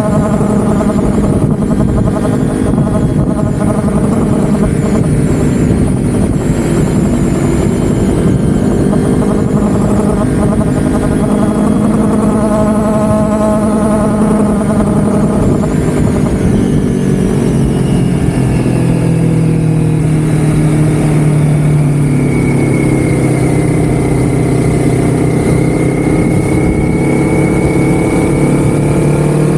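A vehicle engine running steadily under way. Its pitch drops about halfway through and holds lower, with a faint whine over it near the end.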